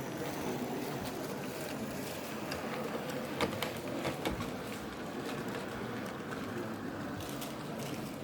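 Steady background hubbub of a busy indoor exhibition hall, with a few sharp clicks about three and four seconds in.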